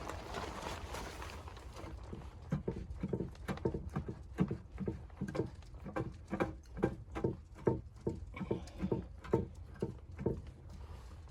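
Footsteps in snow at a steady walking pace of about two steps a second, starting a couple of seconds in and stopping near the end.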